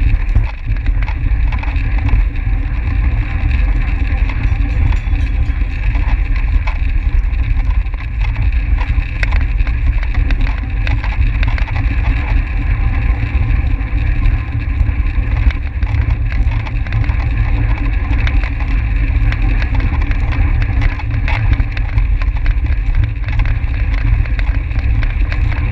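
Steady low rumble of wind on the microphone of a track bicycle rider moving at speed, with the hiss of tyres on the track.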